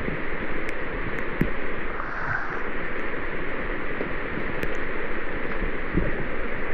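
Steady rush of water in rainforest rain, with a few soft knocks.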